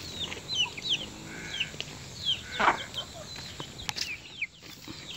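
Birds chirping in a string of short, high, falling notes, several each second, with a brief rustle about two and a half seconds in and a sharp click near the four-second mark.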